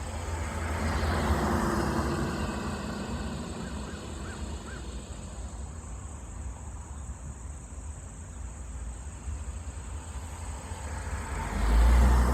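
A car passing along the road, its noise swelling and fading over the first few seconds. A few faint short chirps follow, and a low rumble rises near the end.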